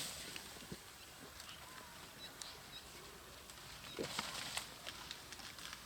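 Quiet bush ambience with a few faint, short bird chirps and scattered small clicks, and a brief rustle about four seconds in.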